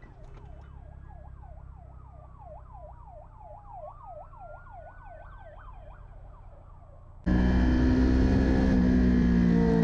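Emergency vehicle siren in a fast yelp, about three sweeps a second, with a slower wailing tone rising and falling alongside it. About seven seconds in it cuts off suddenly, replaced by much louder vehicle and road noise with steady, partly falling engine tones.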